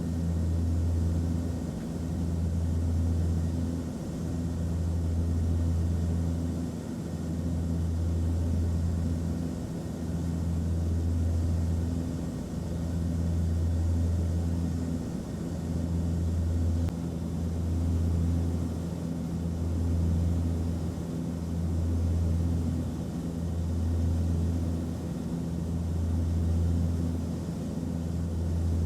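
Airplane cabin noise in flight: a steady low drone with hiss above it, and a deep hum that swells and fades about every two seconds.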